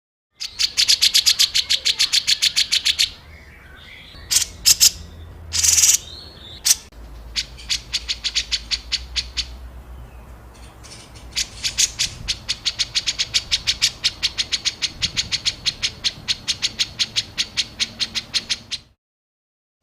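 Songbird giving fast trains of sharp, harsh repeated notes, several a second, in separate runs: the rapid-fire 'tembakan' calls of a masteran tutoring recording. The sound drops out abruptly near the end, as at a splice.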